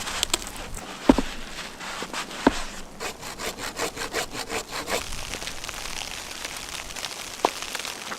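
Hand saw cutting wood: a run of quick, even strokes in the middle, with a few single sharp knocks before and after.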